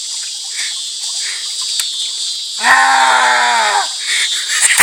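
Steady high drone of insects, with a single drawn-out call about halfway through: one held note lasting about a second that dips slightly at the end.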